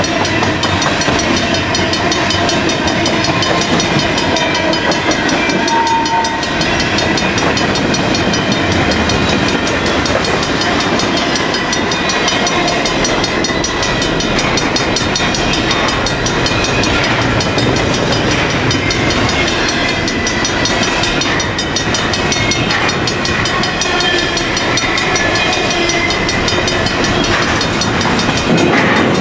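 Freight cars of a long intermodal train, open gondolas and then double-stack container well cars, rolling by: a steady, loud rumble of steel wheels on rail with clickety-clack over the joints and thin high squeals.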